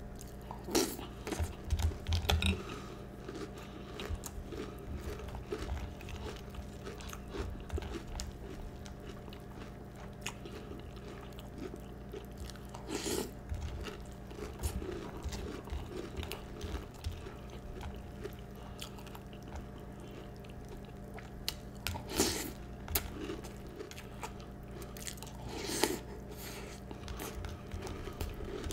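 Close-up chewing and crunching of mouthfuls of Peeps marshmallow cereal, a run of small crunches with a few louder bites about halfway through and again near the end, over a faint steady hum.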